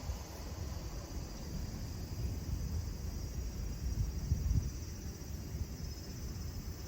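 Insects chirring steadily, with low, uneven wind rumble on the microphone.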